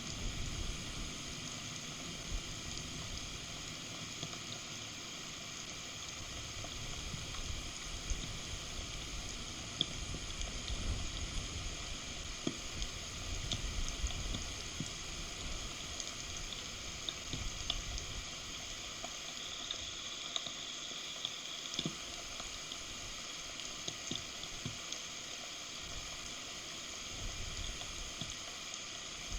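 Steady heavy rain falling on the forest and the nest, with scattered sharp drop hits and a low, uneven rumble.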